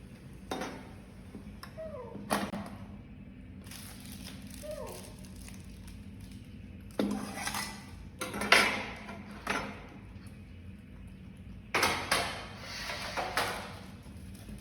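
Irregular sharp knocks and clatters, several in quick succession in two clusters, with a few faint short squeaks falling in pitch among the first ones.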